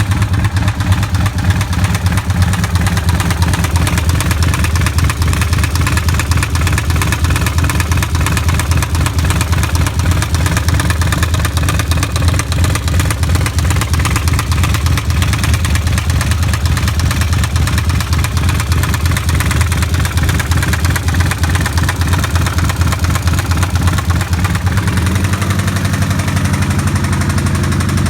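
2005 Kawasaki Vulcan 1500 V-twin engine running steadily with a loud, rhythmic knock from the lower engine case. The engine has been run without oil and then overfilled, which points to oil-starvation damage in the bottom end. The running note changes slightly near the end.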